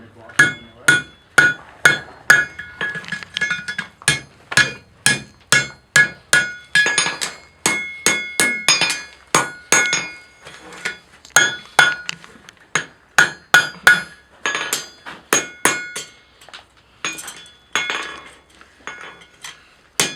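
Blacksmith's hammer striking hot iron on an anvil, a steady run of blows about two to three a second, each with a bright metallic ring, with a few short pauses between runs.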